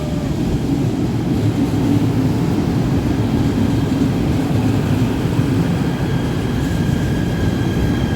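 KTM electric commuter train running, a loud steady rumble of wheels and motors. A faint high whine joins about six seconds in.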